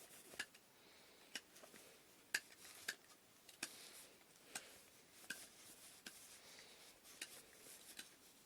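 Light, sharp clicks and taps of wooden inkle-loom parts being handled and fitted together, about one a second at uneven spacing, with one louder knock about a third of the way in.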